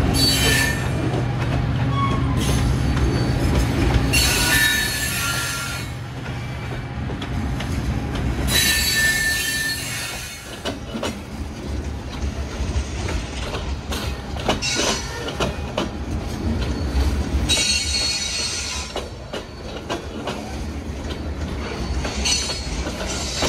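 Freight train of wood-chip hopper cars rolling past, wheels squealing in about six separate high-pitched, ringing bursts over a steady low rumble of wheels on rail, with scattered clicks from the wheels over the rail joints.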